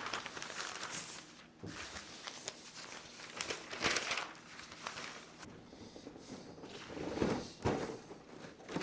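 Irregular rustling and handling noises with a few light knocks as a covering is spread over a work surface.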